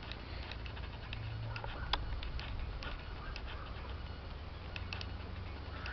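Water drops dripping after a downpour: scattered sharp ticks at an irregular few per second, over a faint hiss and a steady low rumble.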